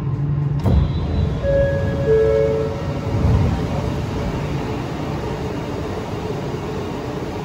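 Bombardier Innovia Metro 300 light-rail train standing at a station platform with its doors open, with steady machinery and station noise. A two-note tone, the second note lower, sounds about a second and a half in, and a brief low rumble follows.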